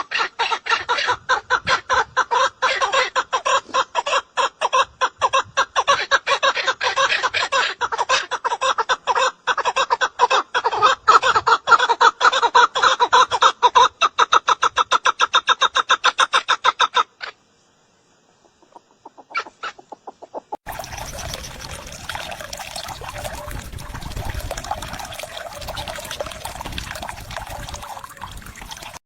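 A bird giving a long run of rapid, evenly repeated calls for about seventeen seconds, then a pause, then a different recording with a steady hiss and fainter calls.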